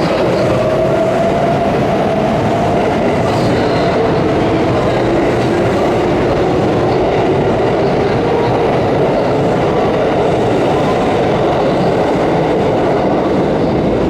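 Hanshin Main Line electric train moving alongside the station platform: continuous steady wheel-and-motor noise with a faint whine that drifts slightly in pitch.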